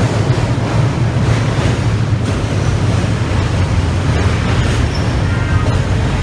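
TTC Line 3 Scarborough RT train at a station platform: a steady, loud low hum with rumble and no sharp events.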